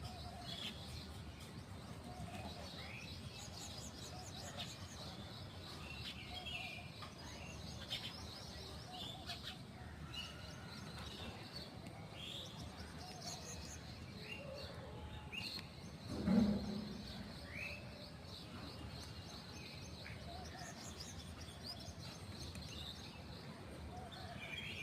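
Small birds chirping and twittering: many short rising chirps and quick trills over a steady background hiss, with one brief louder low sound about two-thirds of the way through.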